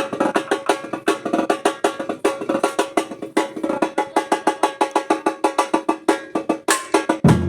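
Batucada percussion playing a fast, steady run of sharp, high-pitched strikes. Deep bass drums come in just before the end.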